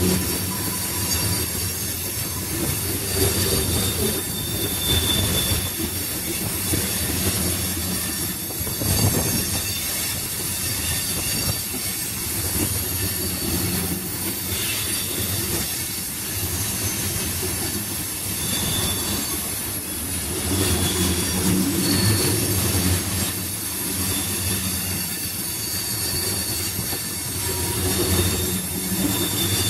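Tank cars of a freight train rolling past at speed: a steady rumble of steel wheels on rail that swells and eases as cars go by, with a few brief high wheel squeals.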